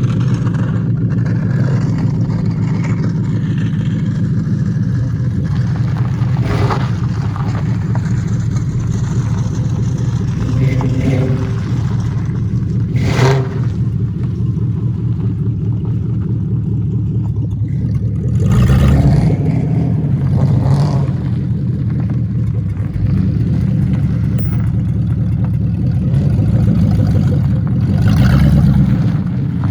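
Ford Crown Victoria's V8 running with its catalytic converters cut out, holding a steady note and swelling louder twice as it is given throttle, about two-thirds through and again near the end. A single sharp click sounds partway through.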